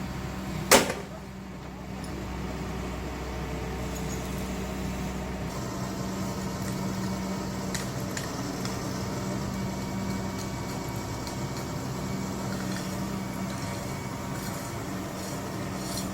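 Excavator's diesel engine running steadily, with one sharp knock about a second in.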